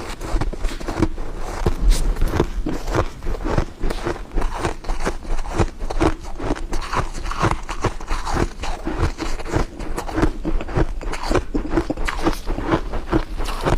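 Close-up crunching of frost ice being bitten and chewed: a steady run of sharp, crisp cracks and crackles with no pauses.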